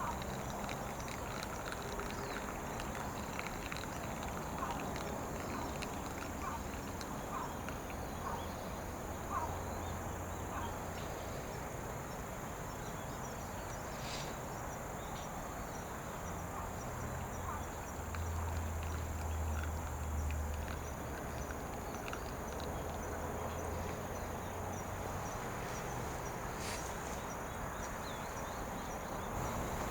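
Insects chirping steadily in a high, thin, unbroken drone, with a low hum swelling for a few seconds in the middle and a couple of sharp clicks.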